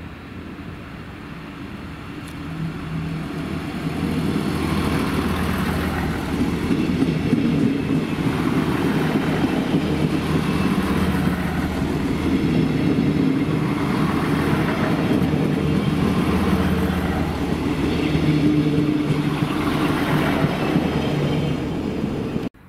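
Diesel multiple unit passing close by under power: steady engine note in several low tones that step up and down, over the rumble of wheels on the rails. It builds over the first few seconds as the train nears and cuts off abruptly at the very end.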